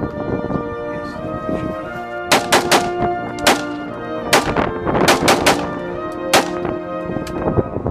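Gunshots fired in quick strings, about a dozen sharp cracks in rapid runs over background music with steady sustained tones.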